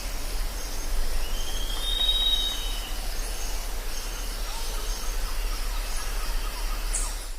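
Jungle ambience: a steady hiss of background calls with short, repeated high chirps, and a drawn-out whistled call about a second in that lasts about a second and a half. A low hum runs underneath.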